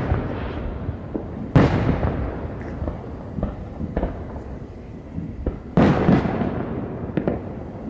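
Aerial fireworks shells bursting: a loud boom about a second and a half in and another just before six seconds, each trailing off in a rumble, with a few smaller pops and crackles between.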